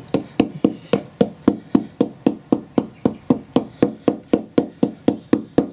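Rapid, even hammer taps, about four a second, driving a part into an MGA 1600 front wheel hub; fitting that goes in easily with light tapping after the bearings needed heavy pressing.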